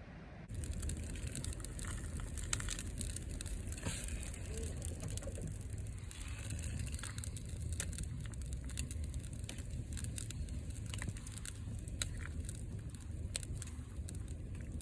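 Wind buffeting the microphone with a steady low rumble, under irregular small crackles and clicks throughout.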